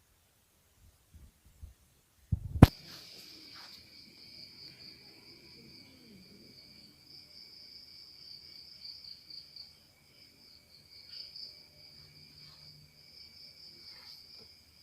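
A sharp knock, like the phone or camera being handled, then crickets chirring in a steady high trill with a fainter lower tone beneath it.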